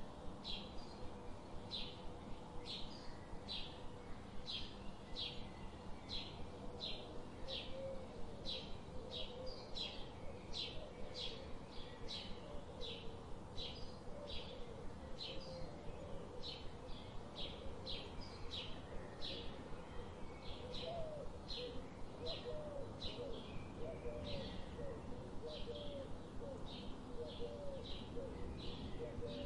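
Birds calling: short high chirps repeating about one and a half times a second, with lower warbling calls joining in after about eight seconds.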